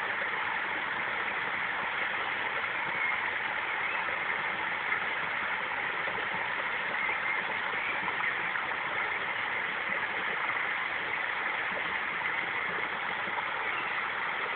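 Steady rushing noise that holds an even level throughout, with most of its energy in the upper-middle range.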